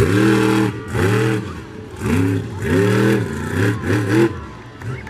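Monster truck engine revving in about six short blips in quick succession, each rising and then falling in pitch.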